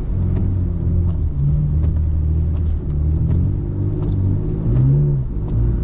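BMW E39's engine running under load, heard from inside the cabin, its revs rising and falling several times while the car pushes up a hill through deep snow.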